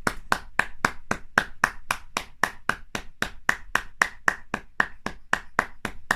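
Rapid, evenly paced sharp slaps, about four a second, made by hand as a manual foley imitation of vigorous sexual intercourse.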